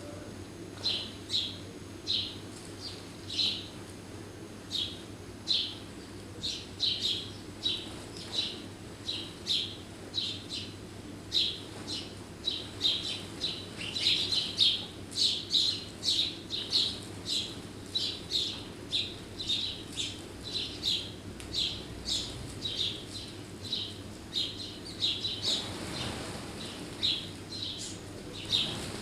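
Garden birds chirping: short, high chirps repeated about one or two a second, with a faint steady low hum beneath.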